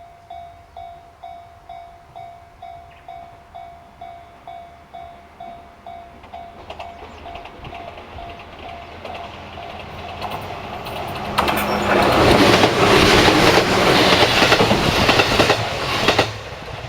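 A train on the Sasebo Line approaches and passes close by, the rumble growing from about six seconds in, loudest from about eleven to sixteen seconds, then dropping off suddenly near the end. Throughout, a level-crossing warning bell rings about twice a second.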